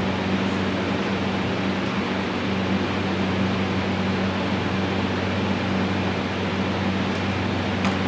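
Steady whoosh of a running fan with a low, even electric hum, unchanging throughout.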